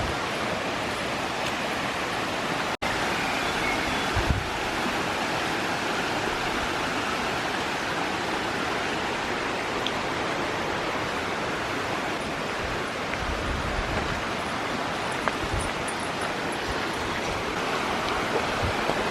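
Steady rushing of a small creek's flowing water, broken by a momentary dropout about three seconds in and a few low thumps.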